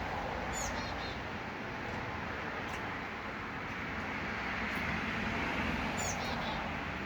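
A small songbird gives a short run of high chirping notes twice, about six seconds apart, over a steady background rumble and hiss.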